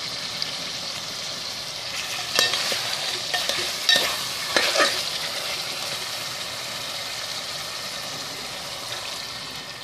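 Chicken pieces sizzling steadily in hot oil with a spice paste in a metal pot, as they fry before the tomato paste goes in. A metal spoon scrapes and stirs against the pot a few times in the first half.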